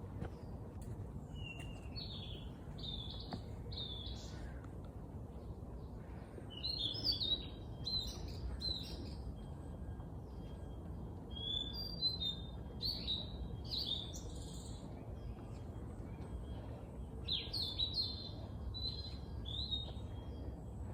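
Small songbirds chirping and singing in short phrases, in several bouts with pauses between them, over steady low background noise.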